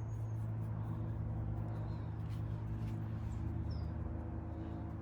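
A steady low mechanical hum with a few faint, short bird chirps over it.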